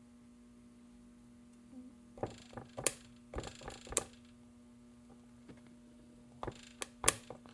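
Scattered sharp clicks and light knocks from handling a tube of glazing putty, in two short clusters, over a steady low hum.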